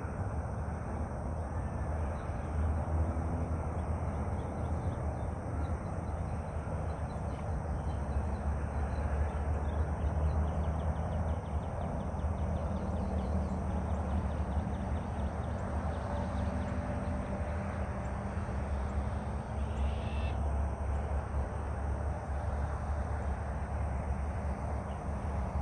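Outdoor ambience: a steady low rumble with faint bird calls now and then.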